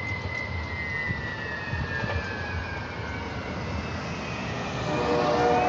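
Passing train moving away: a low rumble with a high, thin tone that slowly falls in pitch. About five seconds in, a louder, steady chord of several tones comes in.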